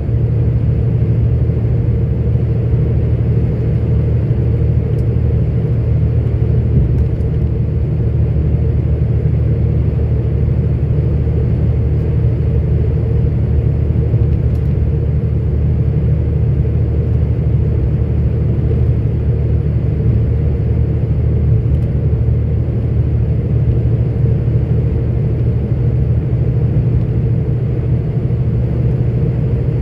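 Steady in-cab rumble of a 44-ton articulated truck's diesel engine and running gear while it drives along the road at an even pace.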